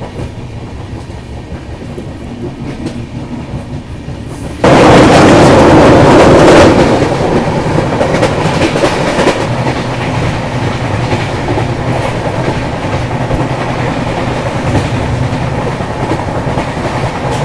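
Express passenger train running at speed, heard from an open coach doorway: the wheels clatter over the rail joints under a steady rushing noise. About five seconds in, the sound jumps suddenly much louder for a couple of seconds, then settles into a steady, loud run.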